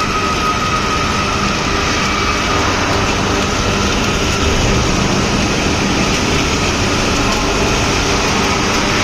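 Spiral pipe welding mill machinery running: a steady, continuous rumble and hiss with a few faint steady tones.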